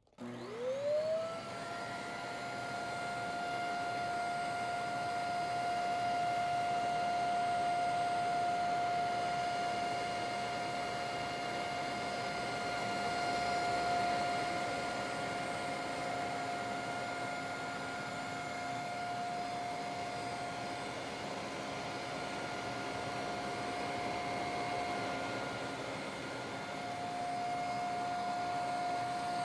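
450 W mattress vacuum cleaner with a spinning brushroll switching on, its motor whine rising quickly and then holding at a steady high pitch as it runs.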